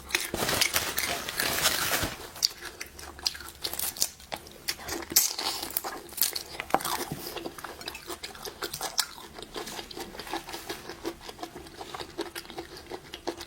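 Close-up crunching and chewing while eating shrimp: a dense run of crackly clicks, busiest in the first two seconds and then more scattered.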